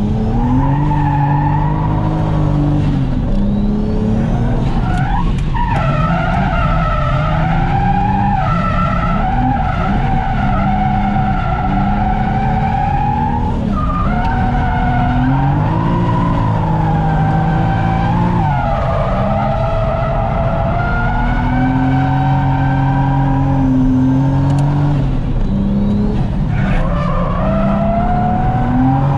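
Toyota JZX100 Mark II's turbocharged straight-six engine under hard load while drifting, its revs rising and falling again and again, with tyres squealing.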